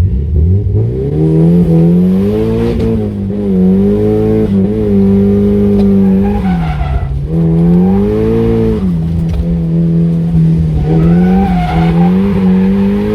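Nissan S15 Silvia's engine revving hard through a drift. Its revs climb steeply at the start, then hold high and dip and recover several times as the throttle is worked. Tyres squeal at times.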